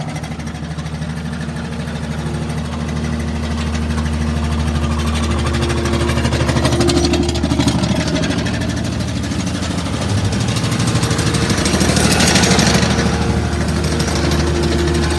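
Diesel engines of a skid steer and a generator running steadily alongside a vibrating topsoil screen, with a fast continuous rattle. The sound swells about twelve seconds in with a brief louder rush of noise.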